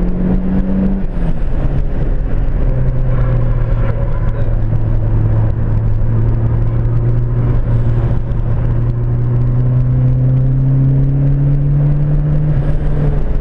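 Ford Fiesta XR2i's turbocharged 1.8 Zetec four-cylinder engine pulling hard at full throttle, heard from inside the cabin. The engine note drops with an upshift about a second in, then climbs slowly and steadily in a tall gear, and drops again with another upshift near the end.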